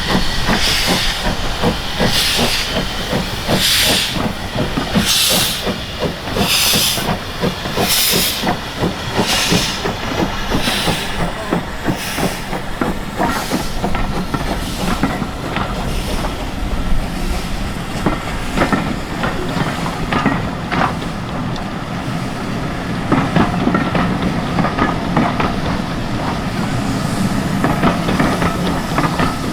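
Steam locomotive working with slow, even exhaust beats and steam hiss, about one beat every second and a half, fading away after about ten seconds. Then the rolling rumble of the train with scattered clicks of wheels on rail.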